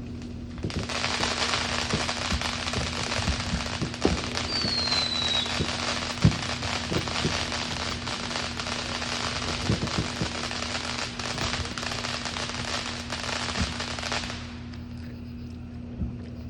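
Fireworks crackling: a dense, rapid crackle starts about a second in and runs for about thirteen seconds before stopping suddenly, with a few louder pops and a brief falling whistle around five seconds in. A steady low hum sits underneath.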